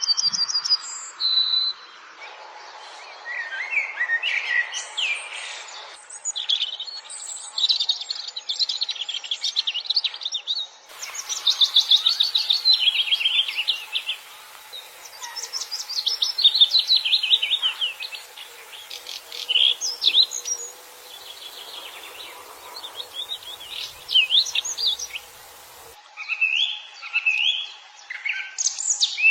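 Songbirds singing: a run of fast trills and chirping phrases, with the background changing suddenly several times as separate recordings are cut together.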